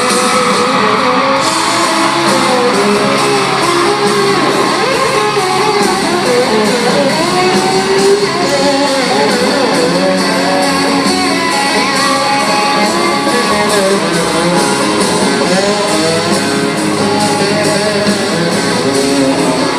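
Live country band playing an instrumental break, with guitar to the fore over the full band.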